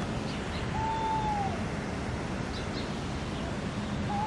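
Steady outdoor background hiss with a clear whistled bird call, held and then dropping at its end, about a second in, and another starting near the end.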